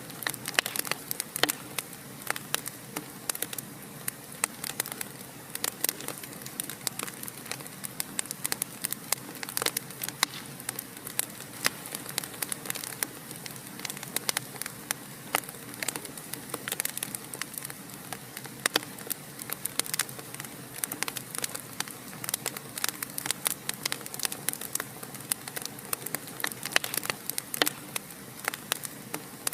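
Fire in a fireplace crackling, with many irregular sharp pops, several a second, over a steady hiss.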